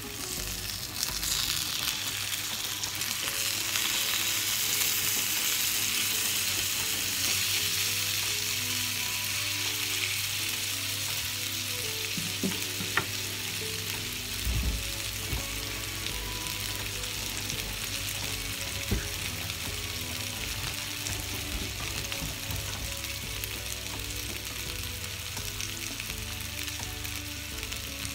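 Salmon fillets sizzling in a hot ridged grill pan, just turned over with a spatula: a steady frying hiss that grows louder over the first few seconds, then eases slightly. A few light clicks come through near the middle.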